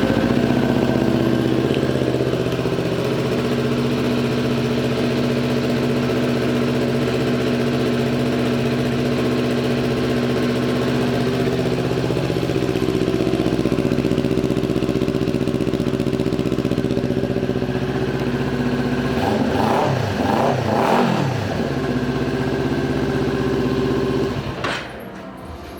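2018 Kawasaki Ninja 400's parallel-twin engine, fitted with an aftermarket exhaust pipe, idling steadily just after being started. About 19 to 21 seconds in it is revved a couple of times, the pitch rising and falling. It then settles back to idle and is shut off near the end.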